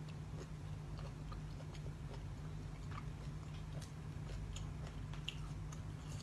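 Close-up chewing and biting of food, with scattered small clicks and crunches over a steady low hum.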